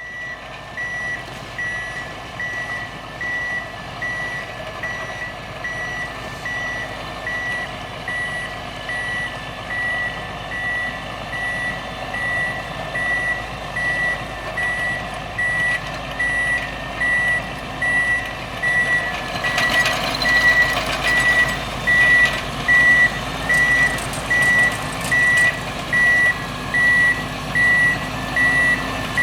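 2010 Prinoth Leitwolf W snow groomer reversing: its reverse alarm beeps about once a second over the steady running of its MAN diesel engine. The beeps and engine grow louder after about twenty seconds.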